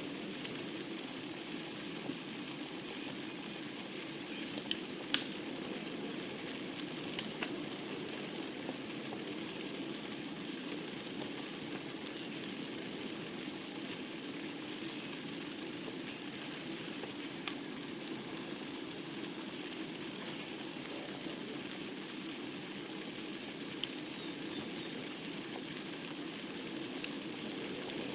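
Wood fire burning in a fireplace: a steady low rush of flame with sharp crackles and pops from the burning logs, clustered in the first several seconds and sparser after.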